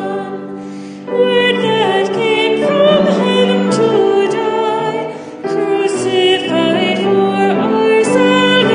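A hymn sung to instrumental accompaniment, in slow held phrases with short breaks between them.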